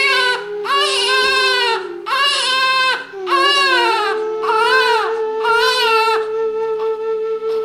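High, wailing crying in a quick run of short cries, each rising and falling, over a steady held musical drone. The cries stop about six seconds in, leaving only the drone.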